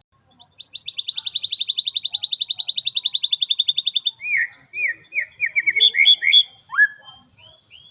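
White-rumped shama singing: a long, fast run of evenly repeated high notes lasting about three and a half seconds, then a string of varied whistled notes and chirps.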